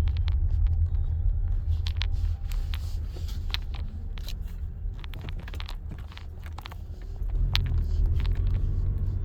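Car interior road noise while driving on a snowy road: a steady low rumble with many irregular clicks and crackles over it. The rumble eases off through the middle and swells again about seven and a half seconds in.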